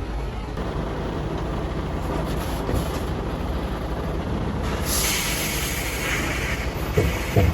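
Steady low rumble of a heavy vehicle, with a loud hiss starting about five seconds in and two sharp knocks near the end.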